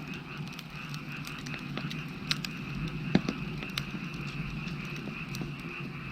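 Wood fire crackling with scattered sharp pops, a louder one about two seconds in and another just after three seconds, over a steady chorus of frogs.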